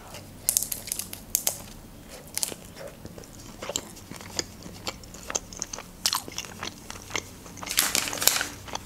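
Close-miked eating: a bite into a homemade shawarma in flatbread, then chewing with many small wet clicks and crunches. A louder noisy stretch of about a second comes near the end.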